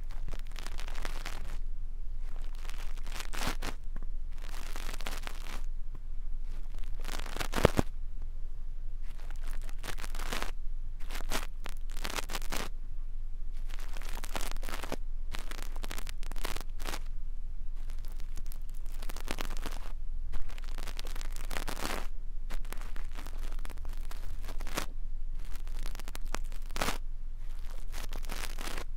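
ASMR brush ear cleaning: a brush sweeps in close up with repeated scratchy strokes, each under about a second and at an uneven pace. A sharper click sounds twice, once about a third of the way in and once about two-thirds in.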